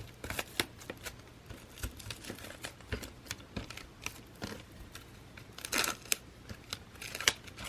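Plastic shrink wrap being punctured and peeled off a Blu-ray steelbook: scattered crinkles and sharp clicks, with a louder crackle about six seconds in.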